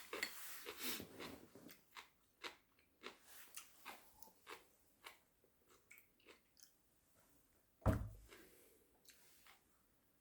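Faint, close-up chewing with small mouth clicks, and one louder, deeper knock late on.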